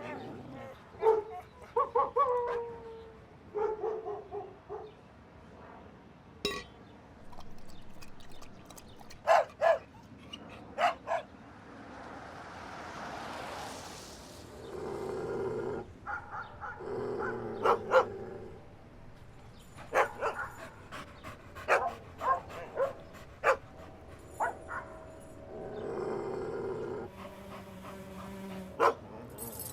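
Dogs barking in short, sharp barks scattered all through, with a few drawn-out falling whines, and a swell of hiss about halfway through.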